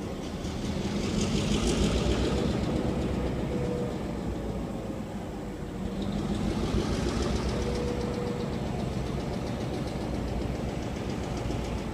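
A train rolling past: a continuous low rumble with rapid rattling higher up. It swells louder twice, about a second in and again about six seconds in.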